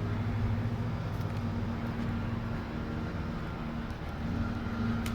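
A steady low mechanical hum, like a motor or engine running, with a short click near the end.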